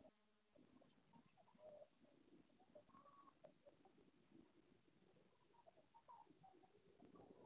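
Faint bird calls: short, high, rising chirps repeating about twice a second, with scattered lower calls between them.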